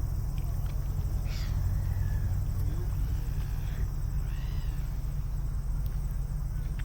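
A few short bird calls, one falling and a pair of quick arching ones, over a steady low outdoor rumble.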